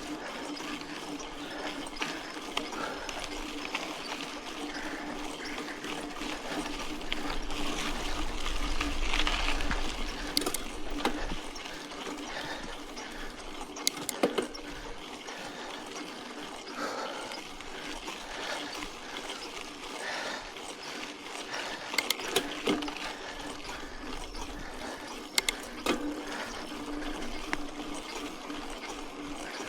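Mountain bike rolling along a dirt road: steady tyre noise on the gravel with a constant low hum. It gets louder for a few seconds about a third of the way in, and there are a few sharp knocks and rattles from the bike.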